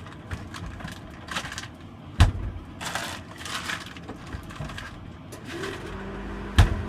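Small clicks and rustles of food being handled, with two sharp knocks, one about two seconds in and one near the end. Near the end a heater kicks on with a steady hum.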